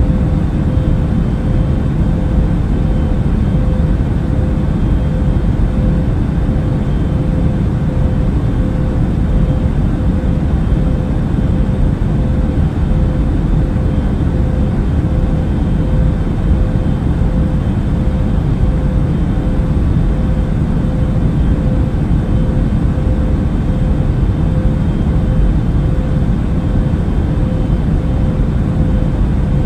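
Airliner cabin noise in flight: a steady deep rumble of engine and air noise with a constant hum above it.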